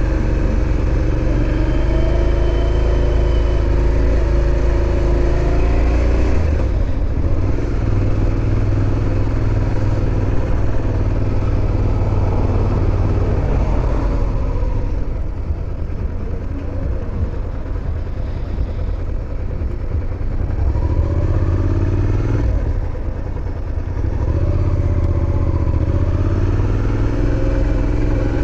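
Suzuki SV650's V-twin engine running while riding, pitch rising as it accelerates through the gears several times, with quieter stretches where the throttle is eased off.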